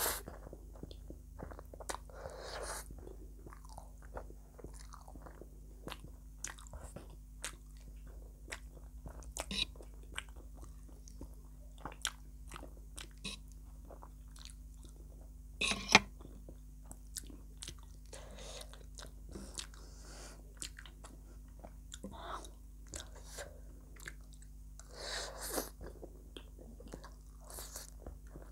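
Close-up chewing of soft instant pasta noodles, with small wet mouth clicks and a few longer slurping noises. A fork clinks sharply on the plate once about sixteen seconds in, the loudest sound.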